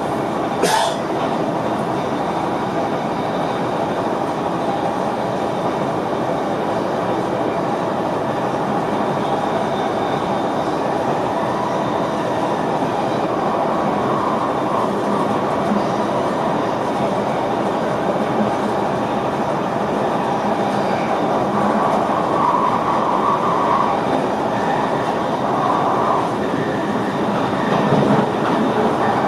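NS VIRM double-deck electric multiple unit running along the track, heard inside the driver's cab as a steady rumble. There is one sharp click about a second in, and a higher whine comes and goes several times in the second half.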